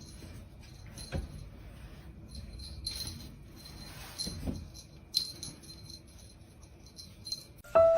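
Light metallic jingling and rattling with a few sharp clicks; piano music starts near the end.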